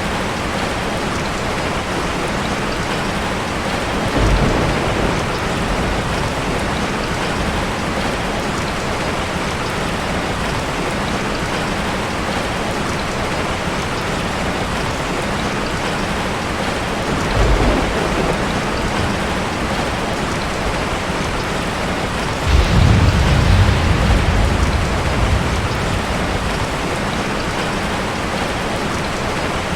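Steady heavy rain, with three low rolls of thunder: short ones about 4 and 17 seconds in, and a longer, louder one about three-quarters of the way through.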